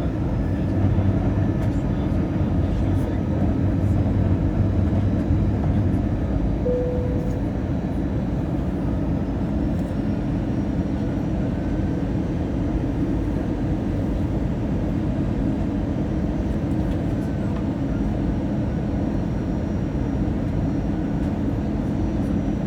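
Steady cabin noise of an Airbus A320-214 in flight: a low, even rumble of airflow and engines. A short tone sounds briefly about seven seconds in.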